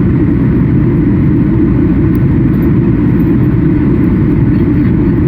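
Steady low rumble inside the cabin of a Boeing 737 MAX 8 in flight: engine and airflow noise, with no change in pitch or level.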